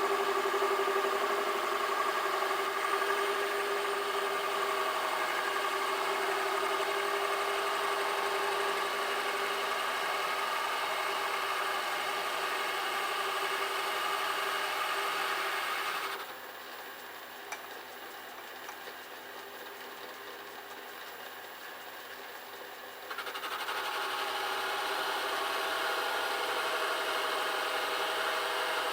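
Metal lathe running, its motor and drive whining steadily as it turns a workpiece against a hand-fed ball-turning tool. About two-thirds of the way through the sound drops and thins out for several seconds, then comes back up to the same steady running.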